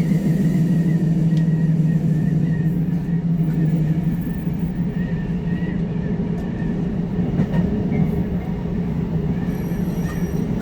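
Running noise of a JR Hokkaido 733 series electric train heard from inside: a steady low rumble of wheels on the track, with a faint wavering high whine above it.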